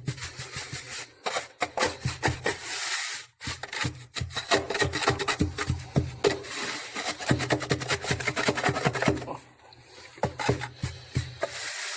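Quick, irregular scraping and rubbing strokes, briefly pausing about three quarters of the way through.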